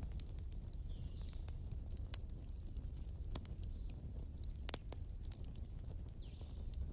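Wood fire crackling: irregular sharp snaps and pops over a low steady rumble, with one louder crack near the middle and a few faint high chirps.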